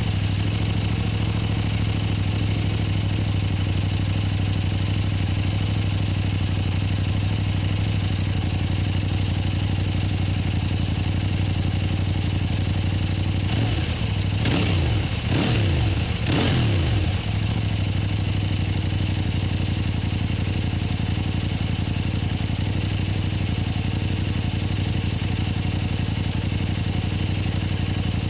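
Kove 800X Pro's parallel-twin engine idling steadily just after starting. About halfway through come three quick throttle blips, rising and falling in pitch, before it settles back to a steady idle.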